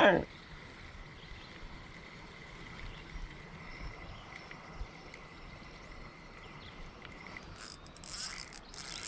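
A short swish at the start, then a thin steady high tone; from about seven and a half seconds in, a spinning reel's drag and gears rattle in short bursts as a hooked smallmouth bass pulls line.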